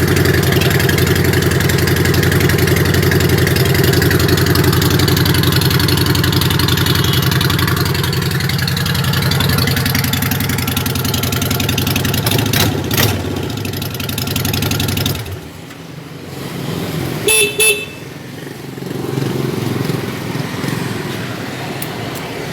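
A Phantom motorcycle's engine running steadily through its exhaust in an exhaust test, then stopping abruptly about fifteen seconds in. About two seconds later come two short horn beeps, followed by a quieter, lower engine sound.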